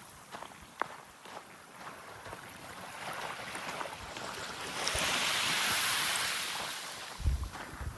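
A small wave breaking and washing up the beach: a hiss that swells about three seconds in, peaks in the middle and fades away. A few low thumps near the end.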